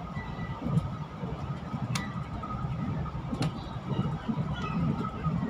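Steady low rumble of a Chu-Kuang Express passenger coach running along the track, heard from inside the carriage. Two sharp clicks come about two and three and a half seconds in.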